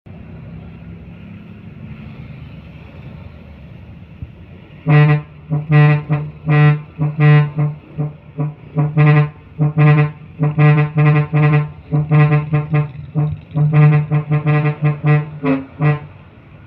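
A truck's horn sounded in a long run of short honks, all at one low pitch, starting about five seconds in, over the steady low rumble of a running engine.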